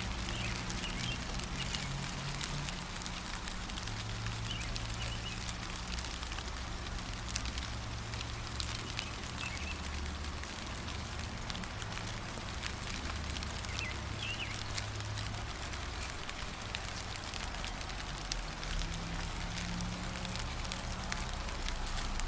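Steady gentle rain: an even patter of drops, with faint short bird chirps now and then and a low steady hum underneath.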